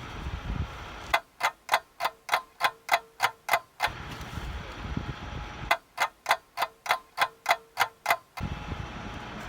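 Two runs of sharp, even ticking, about four ticks a second and ten ticks per run, breaking into steady riding noise that drops out while the ticking lasts.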